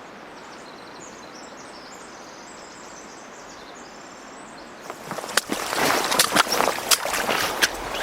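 Steady rush of a river with faint high twittering over it, then about five seconds in, louder crunching footsteps with sharp clicks on river gravel and rocks.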